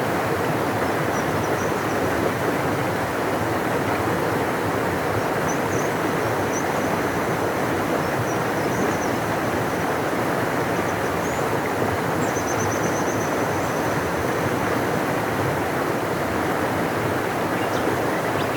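Large river flowing: a steady, full rush of water with no change in level. Faint high chirps come through now and then.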